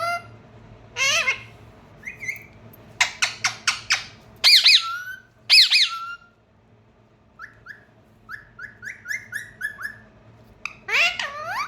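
Pet parrot calling: a harsh squawk about a second in, a quick run of clicking chirps around three seconds, two loud whistled squawks near the middle, then a string of short, softer chirps and another squawk near the end.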